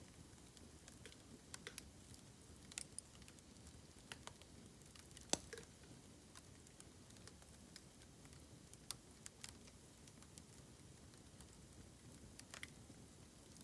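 Bamboo fire crackling: irregular small clicks and snaps over a faint hiss, with one sharper pop about five seconds in.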